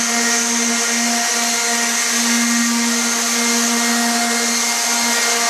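Craftsman 5-inch orbital sander running steadily on a hardwood floor: a steady motor hum over a sanding hiss.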